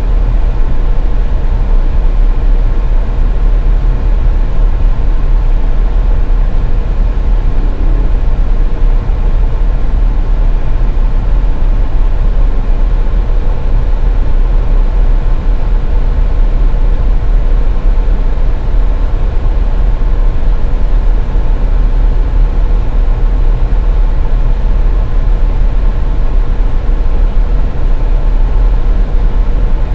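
A car driving along: a steady low road and engine rumble with a faint constant hum, unchanging throughout.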